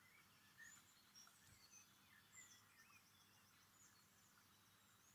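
Faint birdsong: small birds chirping with short high notes, one breaking into a quick trill near the middle, over a soft steady hiss.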